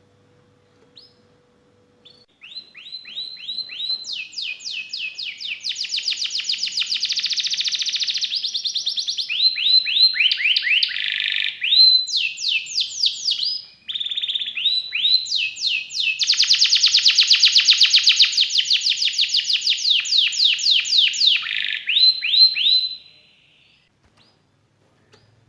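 Canary singing a long, loud song of fast trills and rolls: rapid series of short notes sweeping down in pitch, changing from phrase to phrase, starting about two seconds in and stopping near the end. A faint steady tone sounds before the song begins.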